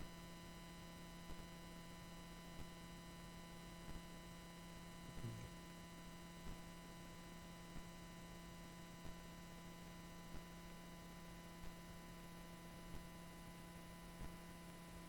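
Faint steady electrical hum in the recording, with a soft tick about every 1.3 seconds.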